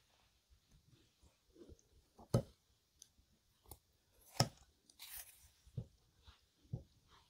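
Close-miked eating: a person chewing food, with scattered sharp clicks, two of them louder, about two and four seconds in.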